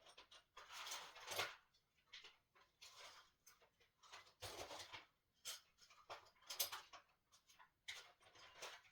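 Faint handling noises of assembly work: scattered clicks, taps and rustles of parts and hardware being picked up and moved.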